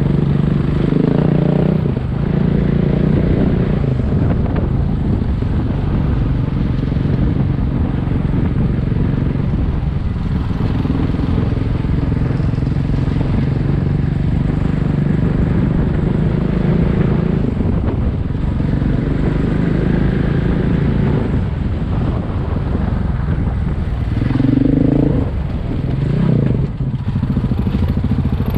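Single-cylinder dual-sport motorcycle engine running steadily while riding, its note shifting a couple of times near the end.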